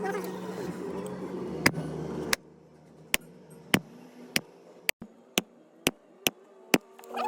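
Hand tool tapping at an even pace, about two sharp light strikes a second, starting a little over two seconds in after a stretch of steady background noise, typical of a small hammer or punch working decorative metal.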